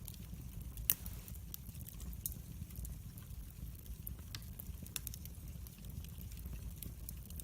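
Firewood burning in a fireplace: irregular sharp crackles and pops over a steady low rumble of the flames, with one louder pop about a second in.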